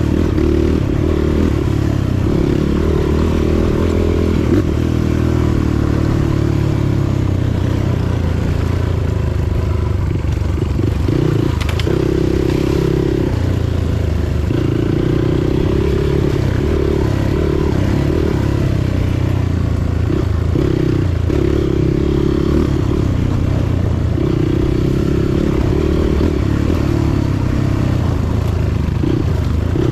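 Motorcycle engine running steadily while riding, with some rattle and scraping noise.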